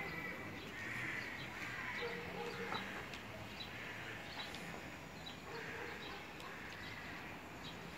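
Faint outdoor background with birds chirping briefly now and then.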